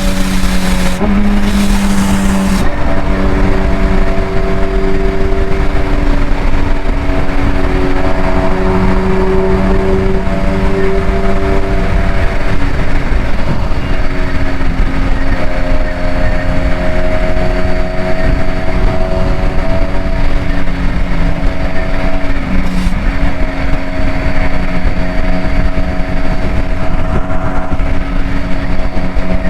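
Motor vehicle engine running at steady revs, its pitch drifting slowly down and up a few times, over a constant low rumble.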